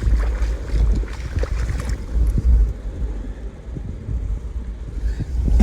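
Wind buffeting the microphone as a steady low rumble, with scattered light ticks and knocks.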